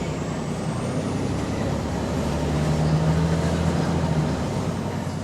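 A bus's diesel engine pulling under load, growing louder for a couple of seconds midway and then easing off. The bus has an exhaust leak, which colours the engine sound.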